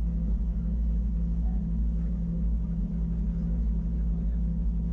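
Wengernalp Railway electric rack train running, heard from on board: a steady low rumble with a constant motor hum.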